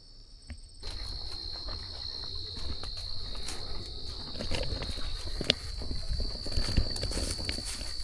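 Footsteps on a trail, irregular thuds and light crunching, under a steady high insect trill that starts about a second in.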